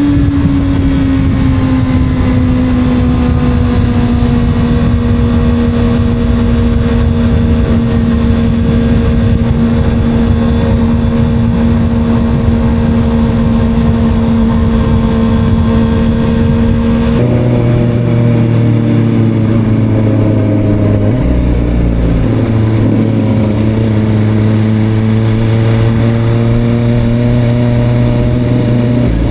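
Motorcycle engine running at steady cruising revs under heavy wind rush on the microphone. About two-thirds of the way through, the wind noise falls away and the engine note turns uneven, with a second, lower tone coming in, as the bike slows.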